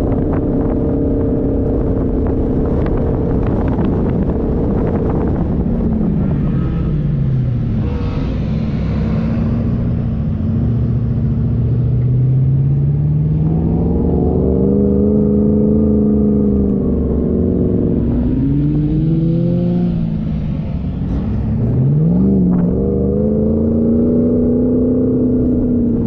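Off-road 4x4's engine running under load and revving, its pitch falling and rising several times, over a steady rumble.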